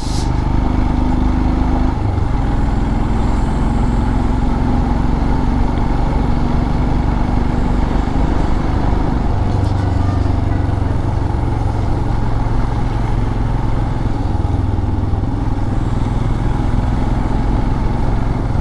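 Motorcycle engine running steadily while riding, with a steady rush of wind noise over it.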